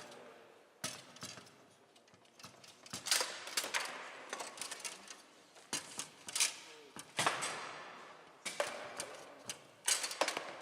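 Foosball being played on a Bonzini table: irregular clusters of sharp clacks and knocks as the ball is struck by the rod figures and bangs against the table walls.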